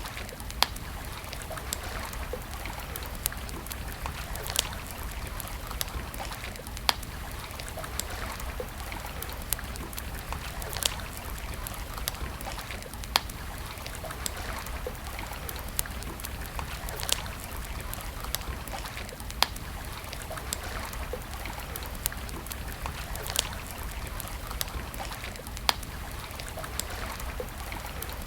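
Wood campfire crackling, with a sharp louder pop every few seconds among many small ticks, over a steady rush that sounds like flowing water.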